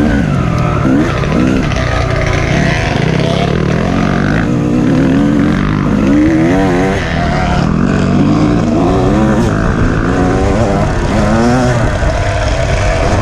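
Off-road dirt bike engine running loud and continuously, its pitch rising and falling over and over as the throttle is opened and closed.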